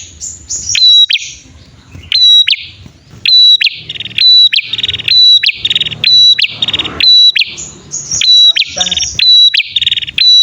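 Prenjak (prinia) birds calling in a duet, male and female: a rapid run of sharp, piercing chirps, about two a second, mixed with buzzy rattling trills. This is a loud lure call of the kind used to draw in wild prinias and to get caged birds singing.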